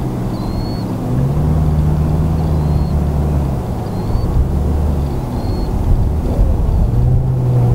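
Distant car engine running at steady revs, a low drone that steps up about a second in, eases off past the middle and swells again near the end, under a rough low rumble of wind on the microphone. Short high chirps repeat every second or so.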